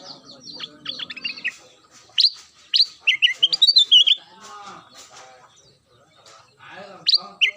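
Kutilang emas bulbul singing: phrases of quick, sharp, downward-sliding whistled notes, with a pause through the middle and a new phrase near the end.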